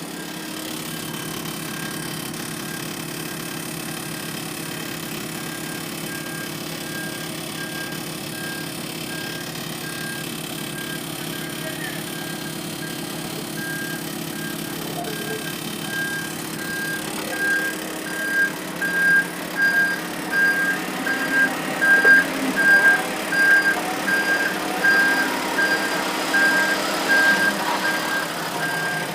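Dump truck's reversing alarm beeping steadily over its running engine, the beeps and engine growing louder in the second half as the truck backs closer.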